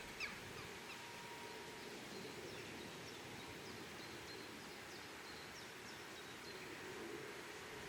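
Faint steady outdoor background noise, with small birds chirping faintly and intermittently in short high notes.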